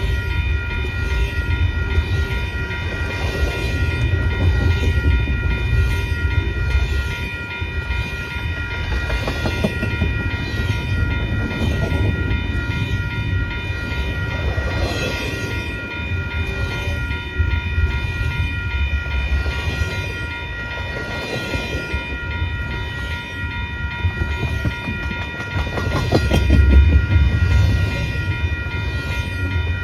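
A CPKC freight train's cars rolling past: a steady low rumble with fast wheel clicks over the rail joints. Several steady high-pitched ringing tones sound above it throughout.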